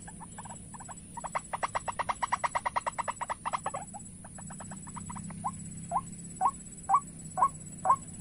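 White-breasted waterhen calls: a fast chattering run of repeated notes for about three seconds, then after a short pause single calls about two a second.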